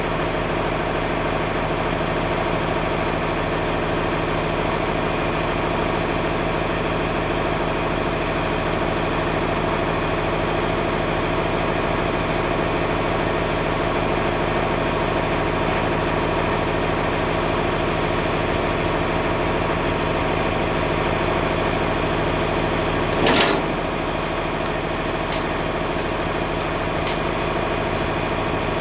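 Tractor engine running steadily at an even speed. About 23 seconds in there is a single sharp clank, followed by two light clicks a couple of seconds apart.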